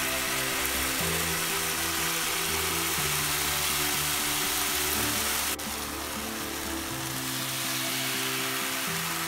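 Background music with slow, held bass notes, over a steady sizzle of a thin liquid frying and foaming in hot oil in a frying pan. The sizzle drops a little about halfway through.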